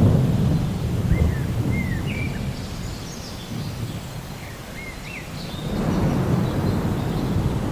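Rain falling steadily, with low rumbles of thunder swelling at the start and again about six seconds in. A few short bird chirps sound in between.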